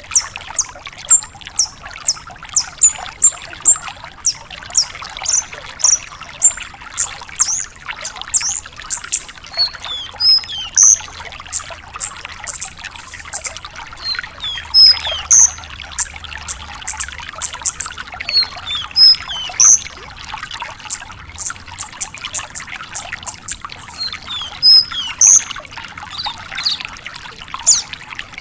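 A branjangan (bushlark) singing a long, fast run of short, high chirps and whistled notes, several a second, over a steady hiss like trickling water.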